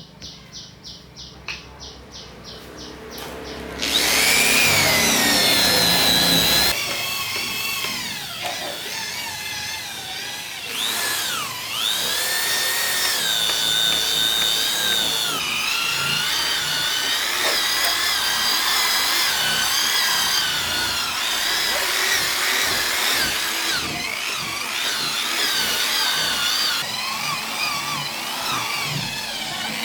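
A handheld electric power tool. It starts with a quick ticking, about four a second, that grows louder. About four seconds in, the motor runs loudly and keeps going, its pitch wavering up and down as the load on it changes.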